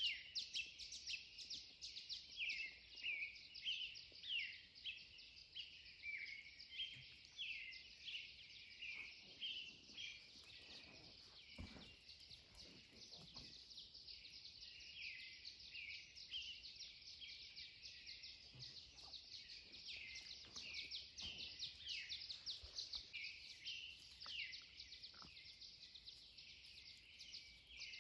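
Pre-dawn chorus of several songbirds: many short, high chirps and quick sweeping notes overlapping without pause.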